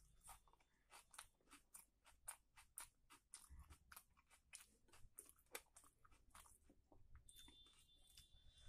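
Quiet close-up chewing of a hand-fed mouthful of curry, rice and raw onion: a quick run of wet, crunchy mouth clicks, about two to three a second.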